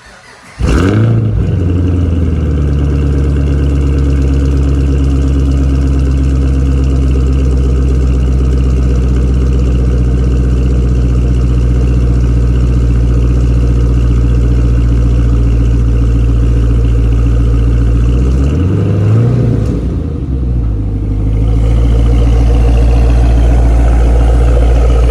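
The 2013 Chevrolet Camaro ZL1's supercharged 6.2-litre V8 firing on a cold start: it catches about half a second in with a flare, settles into a steady, loud cold idle, gets a brief rise and fall in revs about 19 seconds in, then idles on.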